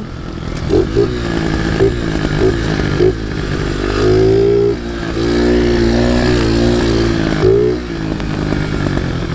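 Chinese pit bike's small single-cylinder engine with stock exhaust, being ridden and revving up and easing off: the revs climb about three and a half seconds in, dip briefly, hold high, then drop near the end.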